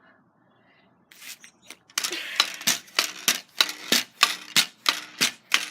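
Pogo stick bouncing: a sharp metallic clank at each landing, about three hops a second, starting about two seconds in after a near-silent pause.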